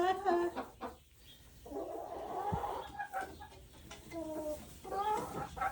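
Hens clucking, with a short pitched call near the start and a run of several short calls in the second half.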